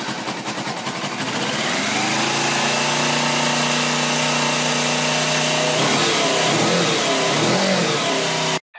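Motorcycle engine running just after a cold start on full choke. The idle climbs over the first couple of seconds and settles steady, then the pitch wavers up and down in the last few seconds before the sound cuts off abruptly.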